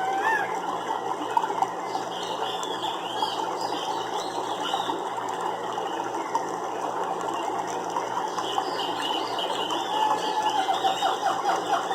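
A nature soundscape: a dense, continuous rattling animal chorus with short warbling chirps rising and falling over it, and a quicker, louder run of rattling calls near the end.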